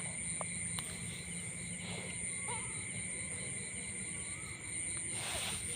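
Steady chorus of crickets and other insects, several high, even trilling tones held throughout, with a short rustling noise near the end.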